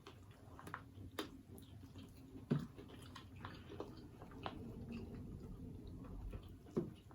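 Close-miked chewing and biting of sweet chili chicken wings: wet mouth sounds with scattered sharp clicks, the loudest about two and a half seconds in and again near the end.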